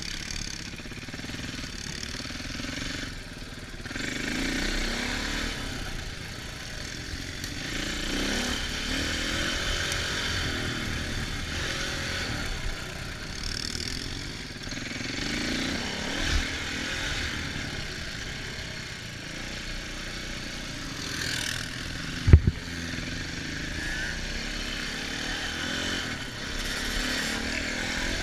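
Dirt bike engine revving up and down while riding, over a steady rushing hiss. A single sharp knock comes about 22 seconds in.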